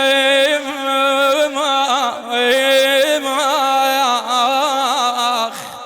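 A male radood (Shia lament reciter) singing a long, ornamented held note, the solo voice wavering and turning around one pitch. It breaks off about five and a half seconds in and rings on briefly in the hall's reverberation.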